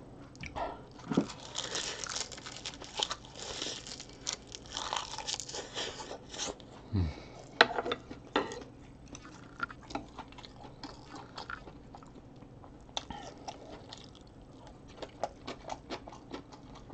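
A person chewing a mouthful of egg fried rice wrapped in seasoned laver, with crunchy, crackling bites. The crunching is densest over the first six seconds, then thins to scattered clicks of chewing.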